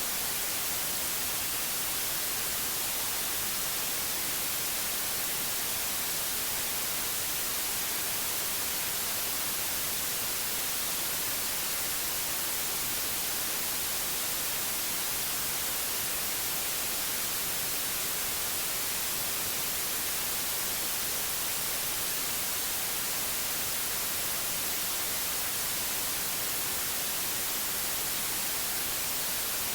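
Steady white noise: an even hiss, strongest in the treble.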